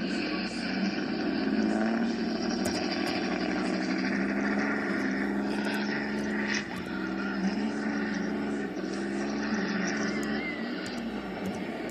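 An engine running steadily at a fairly even pitch that wavers slightly now and then.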